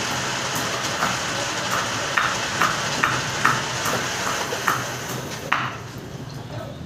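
Metal lathe running during a turning cut: a steady hiss and hum with a series of sharp metallic ticks, about two a second, through the middle. The noise drops off near the end.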